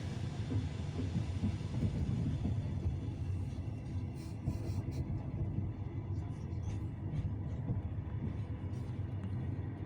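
Passenger railcar rolling and braking on arrival: a steady low rumble of the wheels on the rails, with the hiss of cast-iron brake shoes on the wheels that fades after about three and a half seconds. A few short clicks follow.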